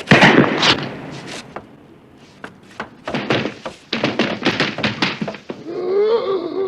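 A series of sharp knocks and thuds: a loud cluster at the start, then a quick run of blows a few seconds in, followed near the end by a wavering, pitched cry.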